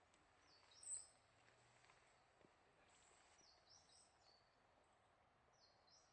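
Near silence outdoors, broken by faint, high-pitched small-bird calls: three short clusters of quick falling chirps, with one slightly louder note about a second in.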